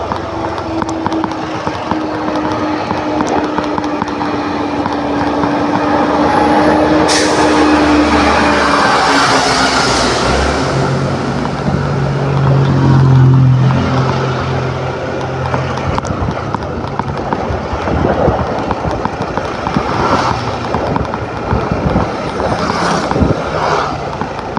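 Riding on a motor scooter in road traffic: engine running under a steady rush of road and wind noise. A louder rush swells about seven to ten seconds in, and a deep engine note comes up around twelve to fourteen seconds in, like a vehicle passing.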